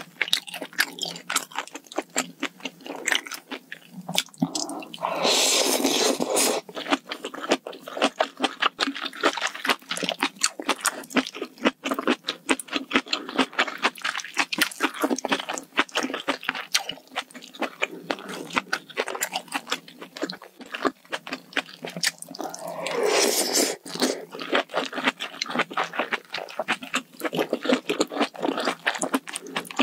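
Close-miked chewing of spicy malatang hot pot: a fast, steady run of wet crunching and mouth clicks. Twice, once a few seconds in and again about two-thirds through, a loud slurp of a second or two breaks in.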